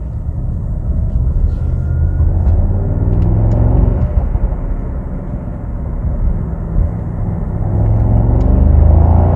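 Mercedes-AMG SL 63's twin-turbo 4.0-litre V8 accelerating in Sport Plus mode, heard from inside the cabin with the roof closed. The engine note rises about three seconds in, eases off, then rises again near the end.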